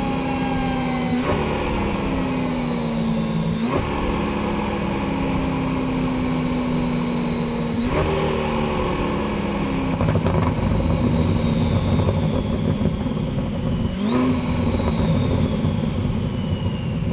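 ProCharger-supercharged C8 Corvette LT2 V8 running on a chassis dyno, with the blower's high whine riding over the engine note. Engine pitch and whine jump up sharply four times and sink slowly in between.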